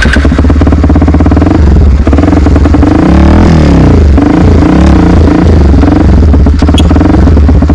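Honda XR 250 Tornado motorcycle's single-cylinder four-stroke engine running just after being started. It idles, then revs up and down a few times in the middle before settling back.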